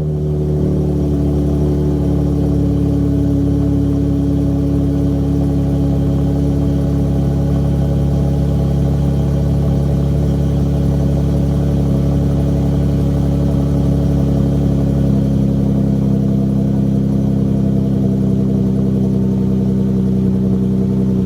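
Straight-piped Dodge Challenger exhaust idling steadily, a loud even engine note that holds one pitch throughout.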